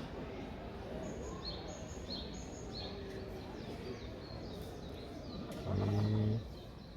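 Small birds chirping over and over, each call a short high falling note, over a steady outdoor background noise. Near the end a short low steady hum with a clear pitch, louder than the rest, lasts under a second.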